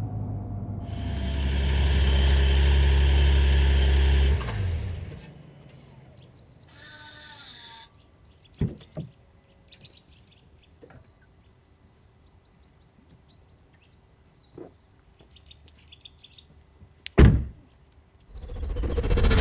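Porsche 911 Carrera T's twin-turbo flat-six running with a deep drone for about four seconds, then fading away. Birds chirp in the quiet that follows, with a few sharp thunks, the loudest near the end.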